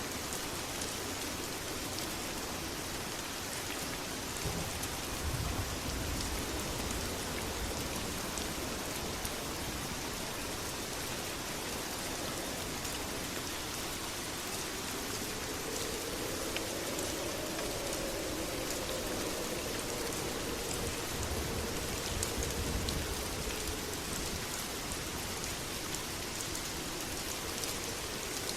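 Steady, heavy rain falling, a dense even hiss with scattered drop ticks. Two low rumbles swell under it, about five seconds in and again a little past twenty seconds.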